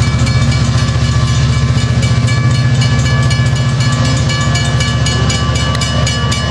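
Passenger train moving past at close range: a loud, steady low rumble of the train with thin, steady high-pitched tones above it.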